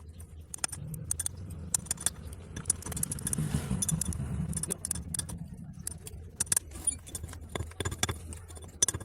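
Irregular sharp clicks and clinks of tools and pipe fittings being handled, over a steady low rumble that swells in the middle.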